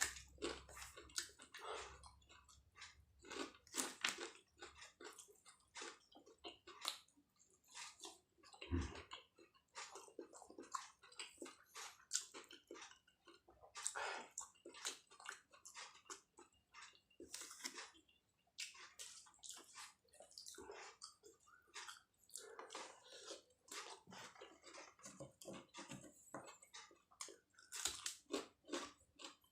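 Close-up eating sounds: a person chewing and biting into martabak telur with bird's-eye chillies, with soft irregular crunches and wet mouth clicks.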